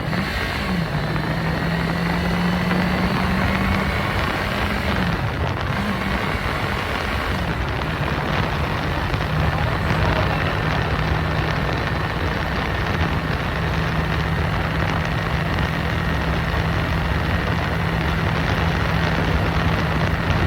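2021 Yamaha MT-03's parallel-twin engine running under way, its pitch dipping briefly a few times in the first eight seconds as the revs change, then holding steady at cruise. A heavy rush of wind noise on the microphone runs under it.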